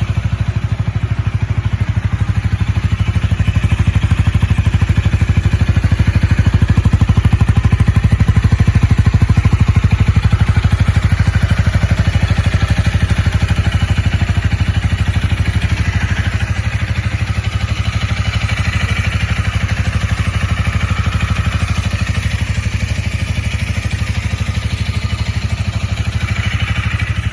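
Honda Rebel 250 (MC49) motorcycle engine idling steadily.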